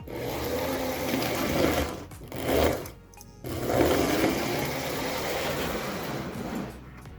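American Flyer 400-series Alco diesel locomotive running on the track, its electric motors whirring steadily. The sound cuts out briefly about two seconds in, again around three seconds, and near the end. The motors, freshly cleaned, run smoothly.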